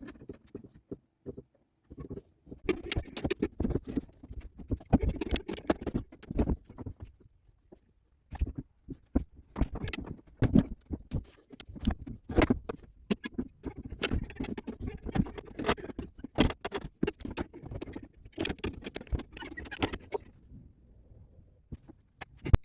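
Irregular clicking, knocking and rattling in spurts, with a couple of short pauses: metal parts and gear clattering as a boat engine, freed from its mounts, is lifted and shifted in the engine bay.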